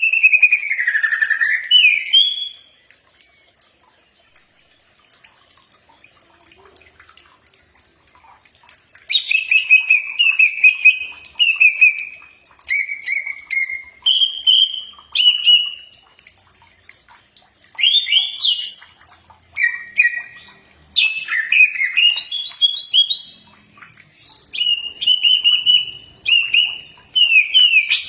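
Cucak ijo (greater green leafbird) singing: bursts of quick notes that slide up and down. A lull of several seconds follows the first phrase, then a run of short repeated phrases from about nine seconds on.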